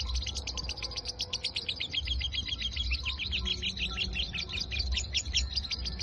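Lovebird giving a long, unbroken 'ngekek' chatter: a fast trill of sharp, high notes, about ten a second, with no pause. This nonstop run is the 'konslet' style of lovebird song.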